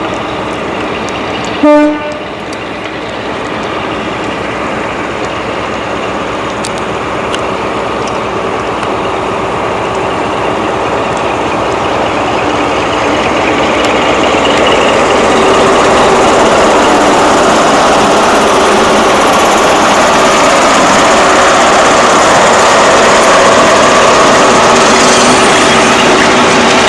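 A train gives one short blast on its whistle or horn about two seconds in. Then comes the steady noise of a train running, which grows louder over several seconds and holds.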